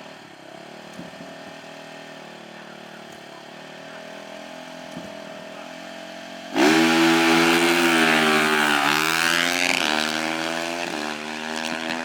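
Small off-road vehicle engine running steadily, then suddenly much louder about six and a half seconds in as it revs hard, its pitch dipping and recovering a couple of times before it starts to fade near the end.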